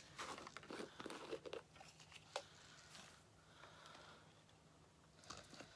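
Faint crinkling and rustling of material being handled, mostly in the first couple of seconds, with a single light click a little after two seconds, then low room tone.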